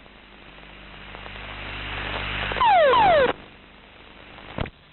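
Ejection from the jet: a rush of noise builds for about two and a half seconds and is cut by a loud burst carrying two quick falling tones, then a sharp click near the end.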